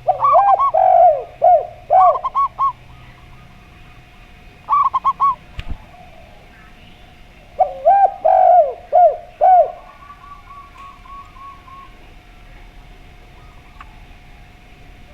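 Zebra dove (perkutut) and derkuku dove cooing in three loud bursts of quick, repeated arched notes: one right at the start, a short one about five seconds in, and another near eight seconds. A fainter run of rapid notes follows, with a single sharp click in the middle and a faint steady tone underneath.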